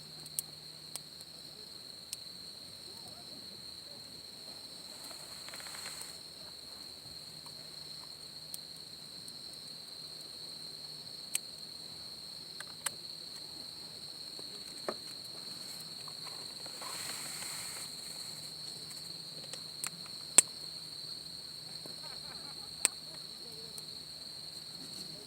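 Insects chirring in a steady high drone, with sharp pops and cracks of a wood campfire every second or two, the loudest about twenty seconds in. A soft rushing noise swells briefly twice.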